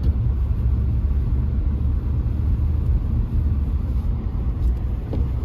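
Steady low rumble of a car driving, heard from inside the cabin: engine and tyres running on a snow-covered, icy road.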